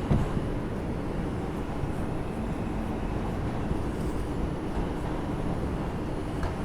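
Steady rumble heard inside an R142 subway car of a New York 5 train, with a brief knock right at the start.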